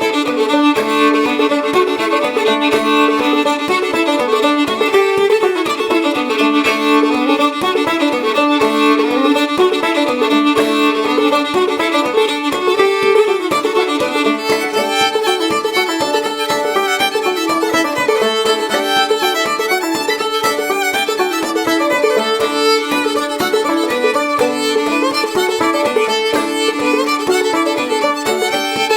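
Clawhammer banjo in D tuning and fiddle playing an old-time tune together: the fiddle's bowed melody carries steadily over the banjo's quick, even picking.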